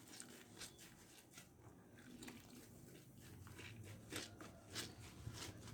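Faint, irregular squishing and scraping as a bar of homemade glycerin soap is rubbed on a wet sponge to work up a lather, with a few louder strokes near the end.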